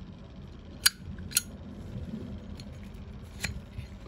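Zippo lighter being handled: two sharp metallic clicks about a second in, half a second apart, and a softer click near the end.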